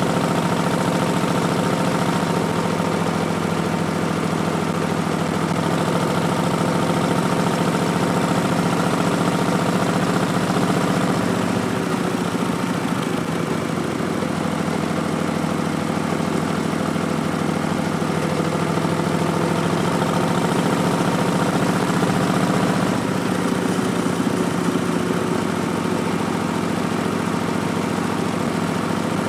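2019 Harley-Davidson Street Bob's Milwaukee-Eight 107 V-twin running through Vance & Hines Twin Slash slip-on mufflers, a steady loud exhaust note while under way. The engine note shifts about twelve seconds in and again a little past twenty seconds.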